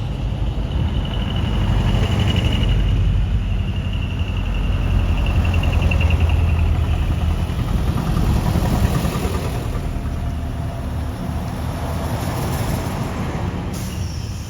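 Heavy trucks driving past with their diesel engines running.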